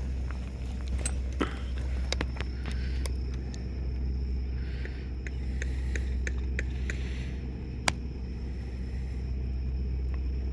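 Scattered light clicks and knocks of camping gear being handled while a tent is pitched, over a steady low rumble; one sharper knock comes near the eight-second mark.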